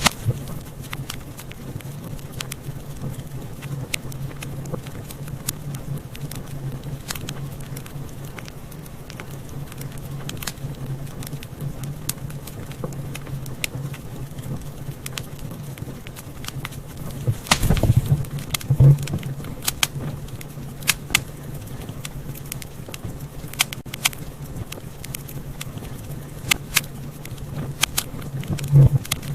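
Wood fire crackling in a fireplace: many scattered sharp pops and snaps over a low steady rumble, with a burst of louder pops about two-thirds of the way in and again near the end.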